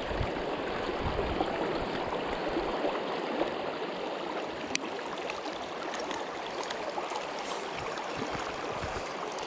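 Steady rush of flowing river current around a wading angler, an even hiss with no breaks.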